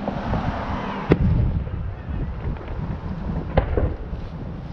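Aerial fireworks bursting overhead: two sharp booms, one about a second in and a second about two and a half seconds later, over a low background rumble.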